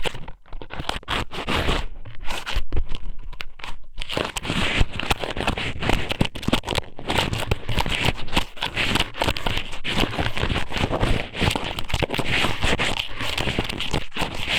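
Strips of raw squid (ika sōmen) pushed and rubbed into an ASMR microphone's ear, giving a close, dense crackling full of small clicks, with a few brief gaps in the first four seconds.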